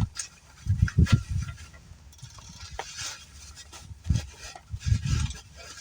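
Wind gusting on the phone's microphone in several short deep rumbles, with crackling of bubble-wrap packaging being handled.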